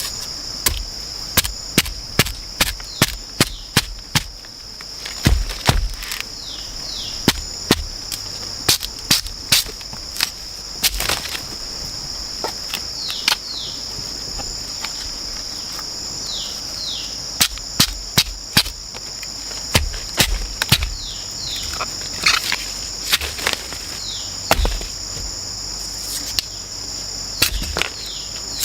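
A steady, high-pitched drone of rainforest insects, with many irregular sharp knocks and clicks and scattered short falling chirps over it.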